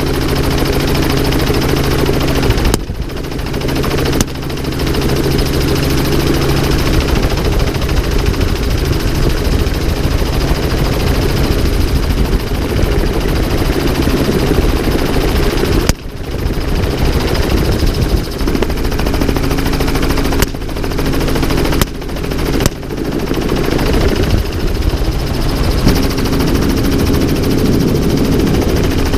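Helicopter running, its engine and rotor making a loud steady drone with a low hum. The sound breaks off sharply a few times, around three seconds in, about halfway and near the end.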